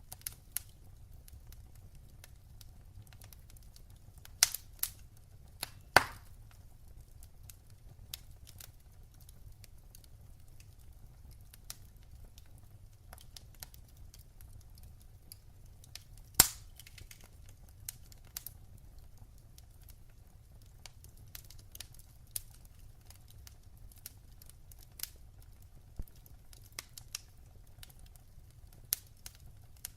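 Fireplace fire crackling: scattered sharp pops and snaps, two louder pops about six and sixteen seconds in, over a faint low rumble.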